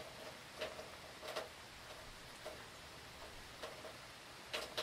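Steady hiss of falling rain with separate drops tapping on a surface about once a second, a quick cluster of taps near the end.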